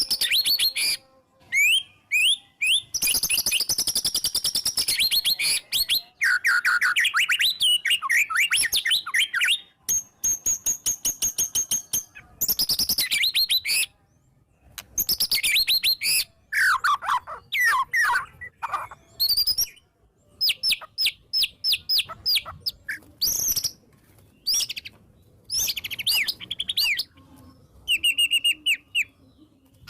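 White-rumped shama (murai batu) singing hard, a loud, varied song of rapid runs of repeated sharp notes, trills and whistled phrases packed with mimicked fills, broken by short pauses.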